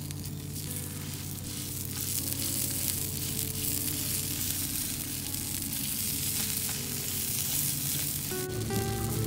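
Chicken burger patty sizzling on a hot griddle plate while a metal spatula presses down on it. The sizzle grows a little louder about two seconds in.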